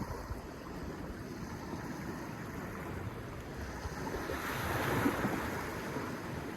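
Sea waves washing on the shore, a steady rush that swells to a louder wave about five seconds in.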